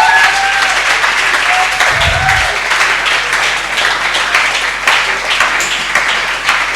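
Congregation clapping and applauding steadily, with a few cheering voices in the first couple of seconds.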